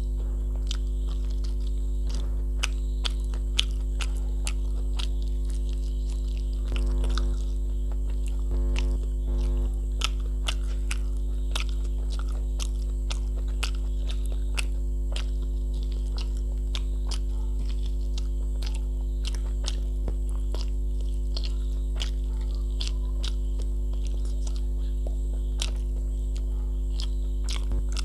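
Close-miked eating of mutton curry and rice by hand: wet chewing and biting with frequent short mouth clicks and smacks, over a loud steady electrical hum that swells briefly twice, about seven and nine seconds in.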